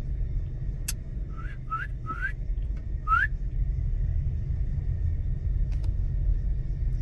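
Steady low rumble of a car's engine, heard from inside the cabin. About one and a half to three seconds in, four short rising whistles cut through it, with a single click just before the first.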